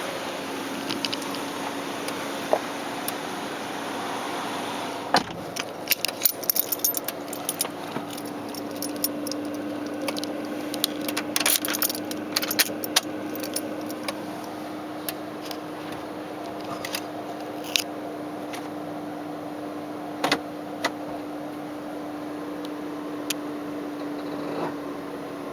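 A bunch of keys jangling and clicking, most busily in the middle stretch, with scattered clicks afterwards, over a steady low hum.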